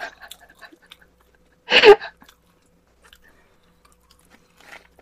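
Close-miked chewing with small mouth and chopstick clicks while eating. About two seconds in there is one short, louder burst of sound.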